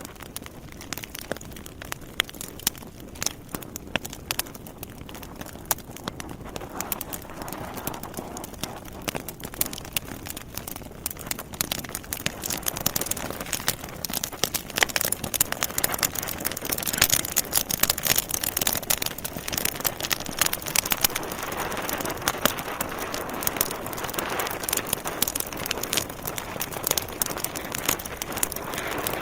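Wood fire burning in a fireplace: many sharp crackles and pops from the burning logs over a steady hiss, growing louder and busier over the first dozen seconds.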